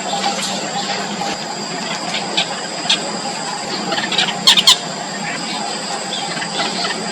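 Nestling birds' thin, high begging squeaks, short and scattered, with two loud sharp calls close together about four and a half seconds in. Under them runs a steady hiss with a constant high-pitched tone.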